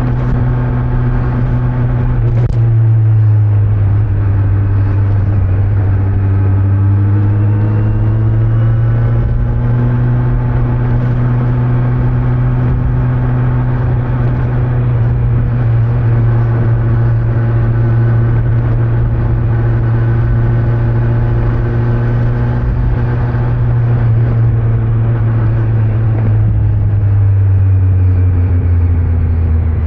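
Kawasaki Z900's inline-four engine under way on the stock exhaust. The engine note dips about two seconds in, rises as the bike accelerates, holds steady at cruise, and falls away near the end as the bike slows.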